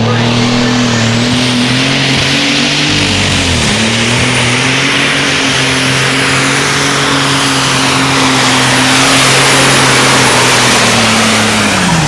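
High-powered tractor engine running hard at high revs, its pitch dipping briefly about three and a half seconds in and then picking back up, with a thin high whine above it. Near the end the revs fall away.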